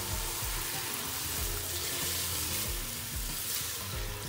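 Sliced onion, carrot and bell pepper sizzling in hot oil and soy and chili sauce in a kadhai, stirred and tossed with a spatula. The sizzle holds at a steady level.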